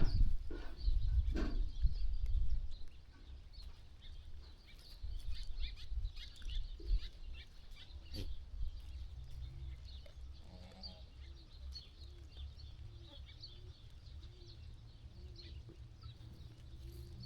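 Sheep farm ambience: a low rumble with scattered clicks for the first few seconds, then quieter, with faint bird chirps and one faint animal call about ten seconds in.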